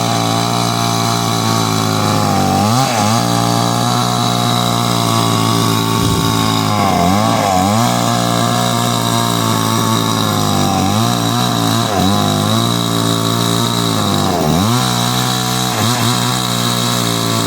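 Chainsaw running at high speed while cutting wood, its engine pitch dipping and recovering several times as the chain bogs under load in the cut.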